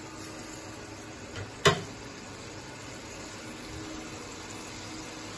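Mashed garlic and onion frying gently in desi ghee in an aluminium wok, a steady low sizzle. One sharp knock about a second and a half in.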